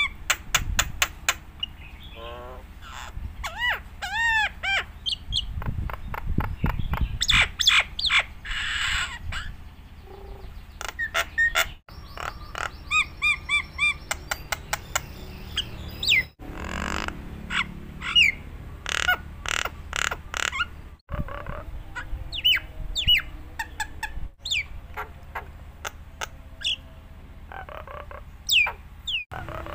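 Jalak Nias, a starling, singing a long, varied song in full voice: quick whistles rising and falling, chirps, chattering runs and clicks, with a few brief breaks.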